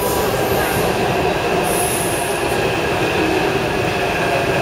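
Taipei Metro C371-type train running on the Tamsui line, a steady rumble with steady high-pitched tones over it and a brief hiss about two seconds in.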